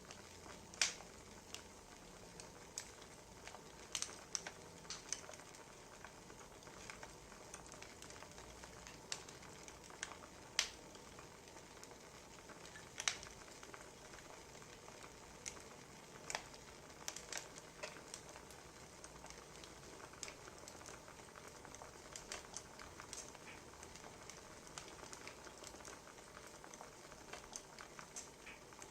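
Wood fire crackling: a soft steady hiss with irregular sharp pops and snaps, a few of them louder than the rest.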